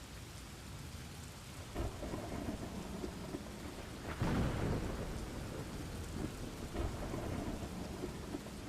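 Thunderstorm ambience: steady rain with thunder rumbling, the loudest peal swelling about four seconds in and fading over a second or so.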